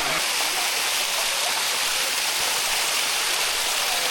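Water of a limestone cascade waterfall rushing and splashing steadily over the rock close by, an even hiss at a constant level.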